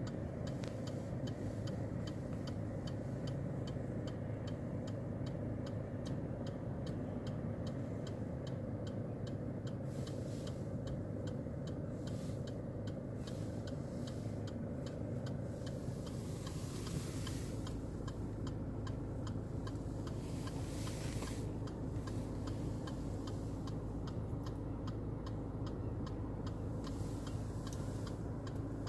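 Regular, evenly spaced ticking over a steady low rumble, with a few short bursts of hiss.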